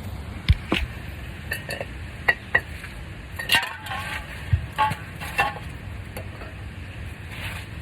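Metal hand tools clinking and rattling as they are handled: a dozen or so sharp clinks, some ringing briefly, bunched in the first five and a half seconds.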